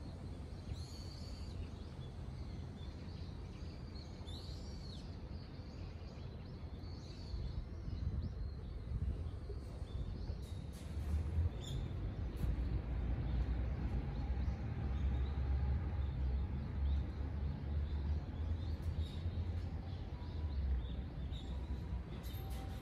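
Outdoor ambience: small birds chirping here and there, mostly in the first half, over a low rumble that grows louder about eight seconds in.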